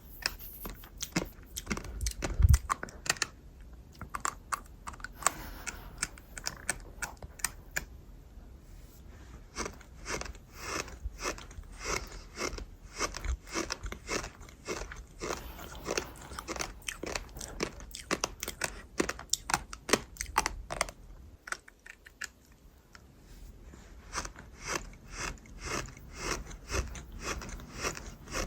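Close-up gritty crunching and chewing: a dense run of sharp, crisp crunches several times a second, easing off briefly about twenty-two seconds in before picking up again.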